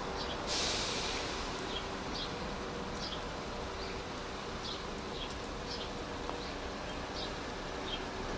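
A small bird gives a short chirp about twice a second over a steady hiss of rain, with the low steady hum of a Class 172 diesel multiple unit slowly arriving. A brief louder hiss comes about half a second in.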